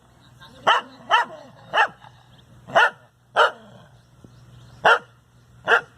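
A dog barking: seven sharp single barks at uneven intervals.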